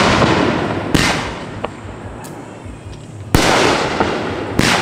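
Consumer aerial fireworks bursting overhead. Loud bangs come about a second in, at about three and a half seconds, and near the end, each followed by a fading hissing crackle, with a few smaller pops in between.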